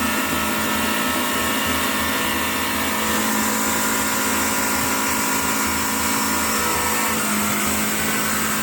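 A heavy vehicle's engine running steadily under load: an unchanging drone with several steady whining tones over it.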